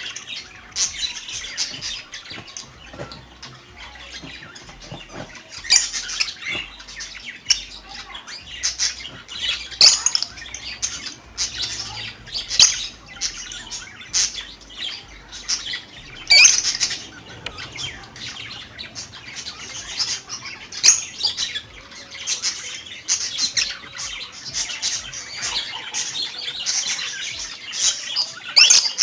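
Cockatiel chirping and calling: many short, sharp chirps scattered irregularly throughout, some louder squawk-like calls among them.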